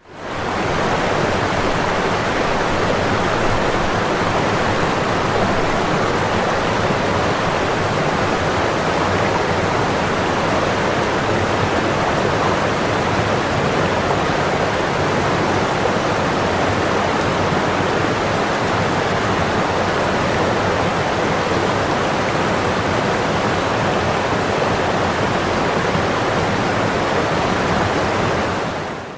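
Steady rush of falling water from a waterfall, fading in at the start and cutting off suddenly at the end.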